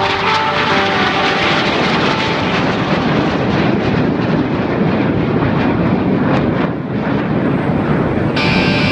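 Loud, steady engine noise of an aircraft in flight, with music coming back in near the end.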